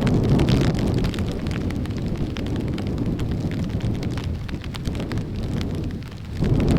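Strong wind buffeting the microphone as a deep rumble, with heavy rain ticking and pattering throughout. The gusts ease briefly near the end, then surge again.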